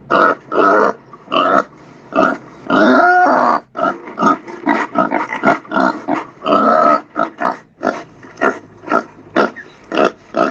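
A pig grunting and oinking: a rapid series of short calls, with one longer call about three seconds in.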